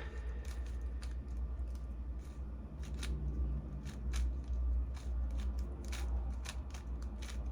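Tornado V3 speed cube being turned quickly by hand: quick, irregular plastic clicks, several a second, over a steady low hum.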